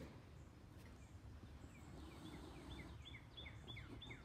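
Near-silent outdoor background. From about halfway through, a bird repeats a short, falling call note in a quick series, about three a second.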